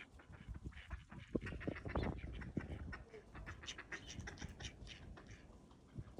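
Ducks quacking in a run of short calls, over a low rumble.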